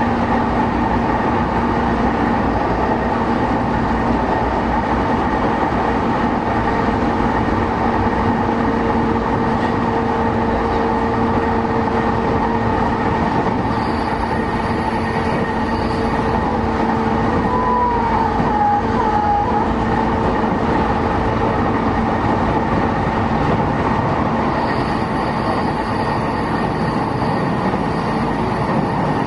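Running noise inside a JR East E233-5000 series electric commuter train at steady speed: an even wheel-on-rail rumble with steady hum tones. A short faint squeal comes about two-thirds of the way through, and a very high thin whine comes and goes twice.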